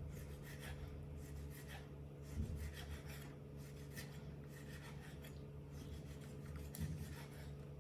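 Faint, irregular scraping and rubbing, with two soft thuds, over a steady low electrical hum.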